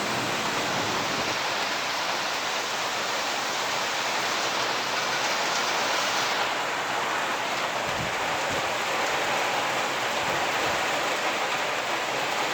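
Heavy storm rain driving down in a steady, unbroken hiss.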